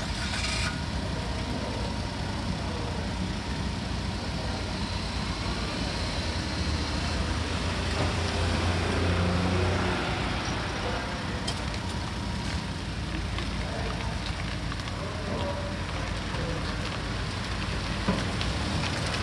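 A steady engine rumble under a rushing hiss, swelling for a few seconds about a third of the way in, with a single sharp knock near the end.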